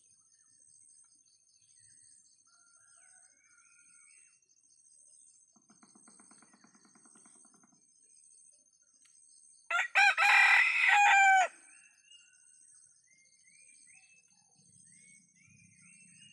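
A kampung (Indonesian village) rooster crows once, loud, about ten seconds in, a short opening note then a long drawn-out call. Underneath, insects chirr steadily with a high pulsing trill, and small birds chirp faintly.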